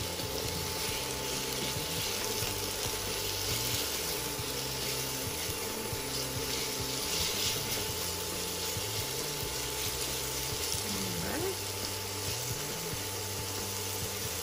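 Raw shrimp sizzling in hot oil in a pan: a steady frying hiss as the tongs turn them.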